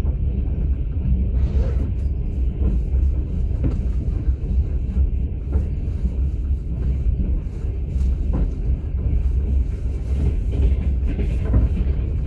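Passenger train carriage running along the line, heard from inside the open sleeper car: a steady low rumble with a few faint knocks scattered through it.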